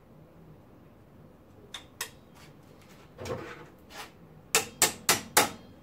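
Metal tools and parts being handled: a couple of light clinks, a short scraping clatter, then four sharp metallic knocks in quick succession near the end.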